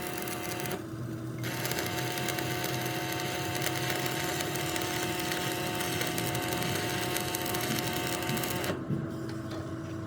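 A machine running with a steady hum and a hiss across the range. It drops away briefly about a second in, then runs on and fades back near the end.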